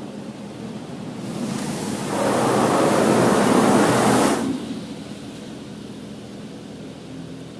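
Touchless car wash's high-pressure water jets sweeping over the car, heard from inside the cabin: a loud hiss that swells about a second in, holds for about two seconds and fades, over a steady low hum.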